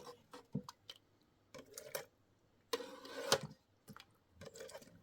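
Intermittent light clinks and knocks of dishes and utensils being handled, with a louder clatter about three seconds in.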